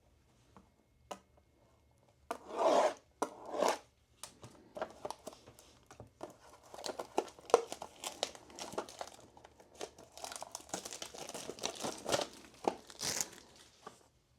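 Plastic shrink wrap being torn off a trading card box: two loud tears about two seconds in, then a long stretch of crinkling and rustling of wrapper and cardboard as the box is opened, with another loud crinkle near the end.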